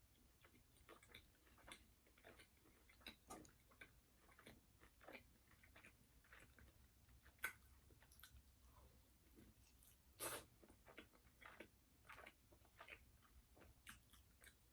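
A person chewing and biting fried food close to the microphone: faint, irregular wet mouth clicks and small crunches. There is a sharper click about seven and a half seconds in and a longer crackle a little past ten seconds.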